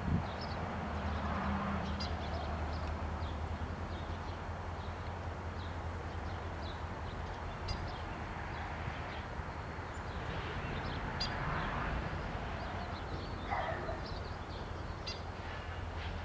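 Birds calling, including a red-winged blackbird: short, high chirps scattered throughout, with a couple of buzzier calls, over a steady low rumble.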